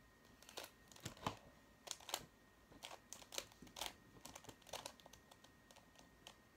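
Square-1 twisty puzzle being turned by hand: irregular plastic clicks and clacks of its layers twisting and slicing, a few per second.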